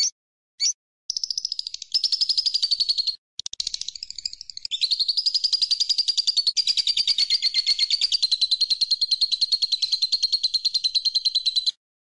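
A songbird singing a high, very fast rattling trill after two short separate notes. The trill breaks off briefly after about three seconds, then runs on in one long, slightly falling stretch until just before the end.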